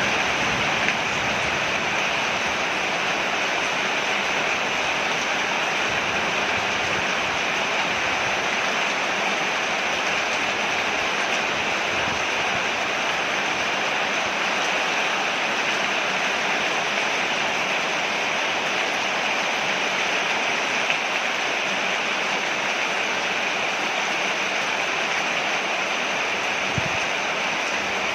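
Rain falling on a porch: a steady, even hiss of water with no break or change.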